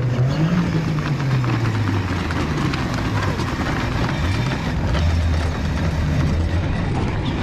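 A car engine running, its pitch falling, then rising again and settling low, with scattered clicks and general outdoor noise around it.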